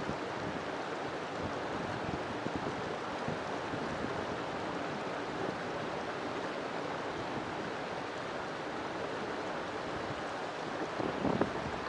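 River water flowing steadily over rocks, a continuous rushing and babbling, with a brief louder burst of splashing near the end.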